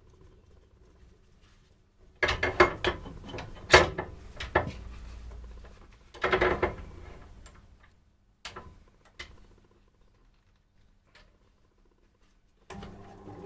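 Sharp knocks and clatter of tools and wood being handled in a workshop, in two bunches with a few single clicks after. Near the end a motor starts up and runs steadily.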